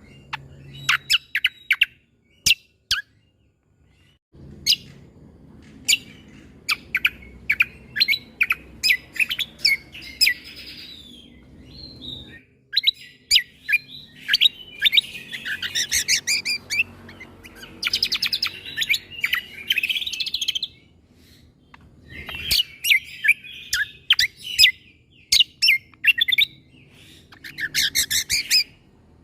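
Cucak kombo (kecial kombo) singing in quick volleys of sharp, high chirps, the explosive 'shooting' (tembakan) phrasing, broken by dense trilled runs partway through and near the end.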